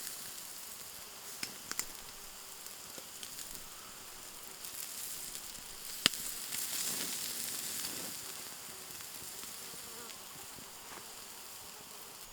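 Food sizzling in a pan over a campfire: a steady high hiss with a few sharp crackles and pops, the loudest about six seconds in.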